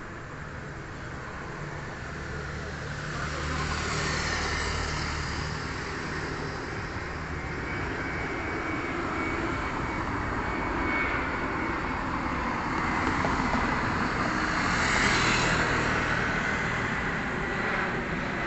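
Airbus A320 jet airliner flying past, its engine noise building over the first few seconds and staying loud, with a steady high whine, and peaking a few seconds before the end.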